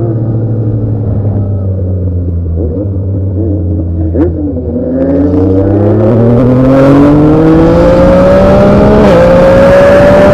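Sport motorcycle with a straight-through exhaust, holding steady revs and then easing off, with a sharp pop about four seconds in. It then accelerates hard with the engine pitch climbing, shifts up quickly near the end and keeps pulling.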